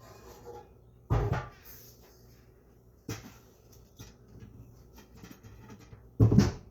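Kitchen knocks and bangs: a loud thump about a second in, a smaller one near the middle and another loud one near the end, like cabinet doors shutting.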